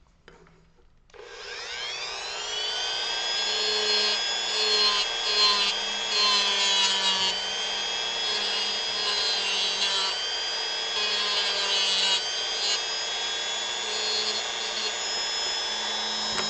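Dremel rotary tool switched on about a second in, its whine rising as the motor spins up, then running steadily at high speed with the bit grinding and rubbing against wood.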